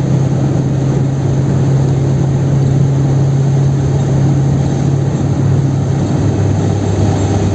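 Chevrolet Kadett 1.8's naturally aspirated four-cylinder engine running steadily while the car drives along, with a loud low drone over road noise; the engine note drops a little about six seconds in.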